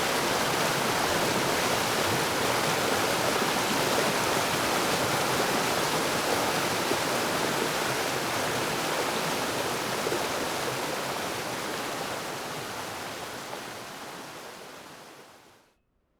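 Creek water rushing and splashing in a steady hiss, fading out over the last few seconds.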